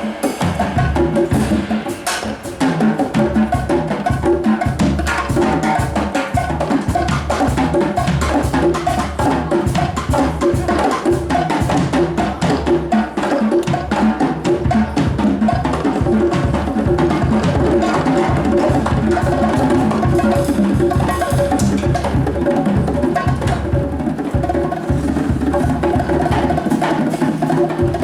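Live band music driven by fast, busy drums and percussion, over sustained tones and a deep bass.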